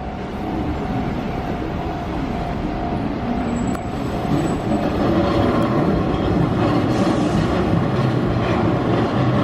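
Keihan Otsu Line electric train running on the rails, growing louder over the first few seconds and then holding steady.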